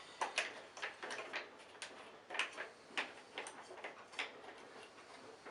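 Irregular light clicks and taps, about a dozen, from the parts of an old Hoover Senior upright vacuum cleaner being handled.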